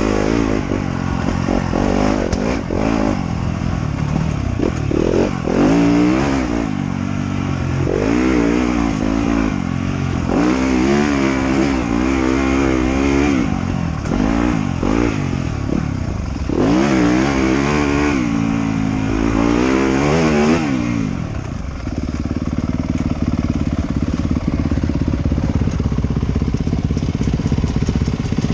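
Off-road motorcycle engine revving up and down over and over as the rider works the throttle along the trail. About three quarters of the way through it settles into a steadier, lower drone.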